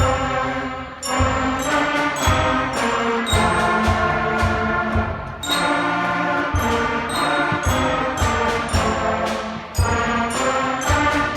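Middle school concert band playing a march: brass and woodwinds on sustained chords over a steady beat of bass drum strokes, with glockenspiel in the mix.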